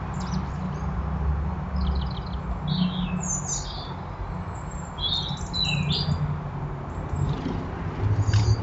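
Garden birds chirping in short, scattered calls, some sliding in pitch, over a steady low rumble.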